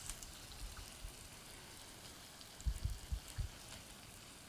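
Chicken breasts frying in a skillet: a faint, steady sizzle with small crackles while glaze is brushed on. A few dull, low thumps come a little past the middle.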